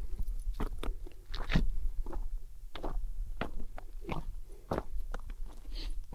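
Footsteps crunching on a trail at a walking pace, with wind rumbling on the microphone.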